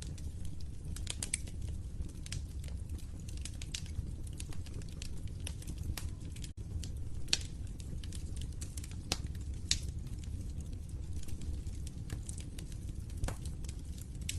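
Wood fire crackling in a fireplace: frequent small sharp pops and snaps over a steady low rumble of the flames, with a few louder pops in the second half.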